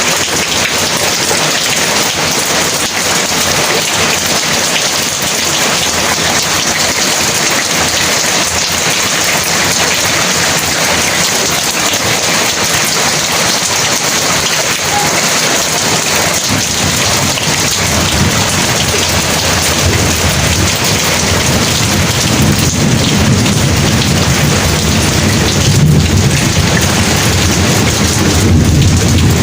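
Heavy rain falling steadily. About two-thirds of the way in, a low rumble of thunder builds and grows louder toward the end.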